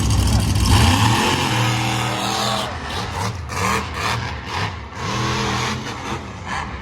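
Monster truck engine revving hard, its pitch climbing and dropping several times after a loud, steady run at the start.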